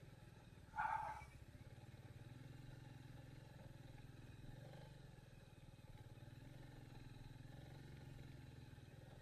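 Royal Enfield Meteor 350's single-cylinder engine running steadily at low revs, heard faintly as a low hum. A brief, louder mid-pitched sound comes about a second in.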